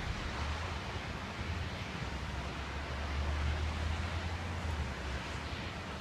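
Storm wind blowing steadily, with a low rumble of wind buffeting the microphone that swells in the middle.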